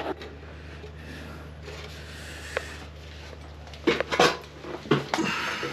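Hard plastic and metal parts of an old bathroom exhaust fan knocking and clattering as they are handled, a few sharp clacks about four seconds in, over a steady low hum.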